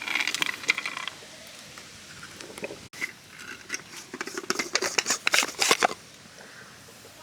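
Manual coffee grinder crunching coffee beans on a coarse setting: a dense run of crisp clicks and crackles from about three seconds in to about six.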